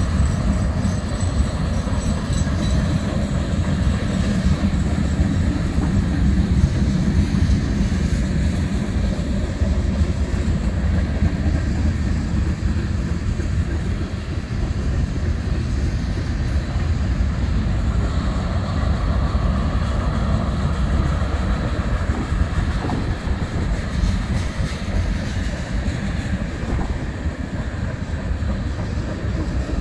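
Freight train cars rolling past on steel wheels: a steady, loud rumble of wheels on rail that keeps on without a break.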